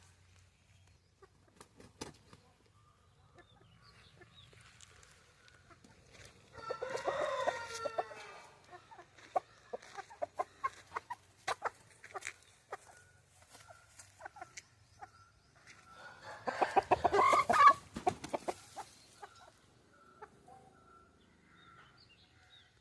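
Aseel chickens calling: two loud, harsh, pitched calls of about two seconds each, one about a third of the way in and one about three-quarters of the way in, with short clucks and clicks between them.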